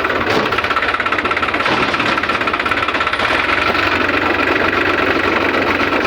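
Tractor diesel engine running steadily with a fast, even knocking beat.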